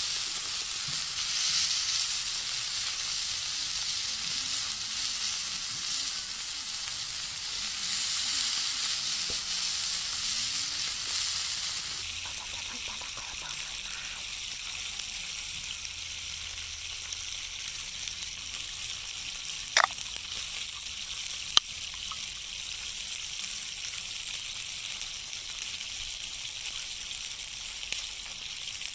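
Food sizzling in a hot pan, a steady frying hiss, with two sharp clicks about 20 and 21.5 seconds in.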